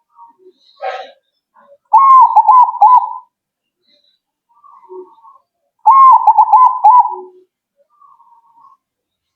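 Zebra dove (perkutut) cooing: two song phrases about four seconds apart, each a quick run of about five notes, with soft short coos between them.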